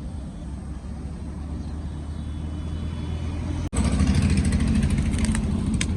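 Vehicle engine rumble from road traffic, growing louder over the first few seconds. A sudden cut about three and a half seconds in is followed by a louder, rougher engine rumble.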